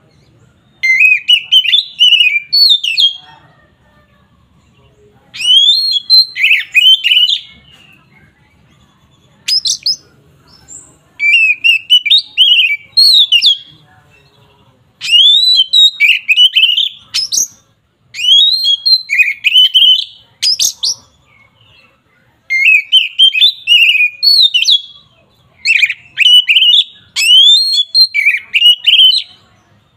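Oriental magpie-robin (kacer) singing a loud, clear 'ngeplong' territorial fighting song. The song comes as short bursts of rapid, whistled and warbling phrases a second or two long, with brief pauses between them.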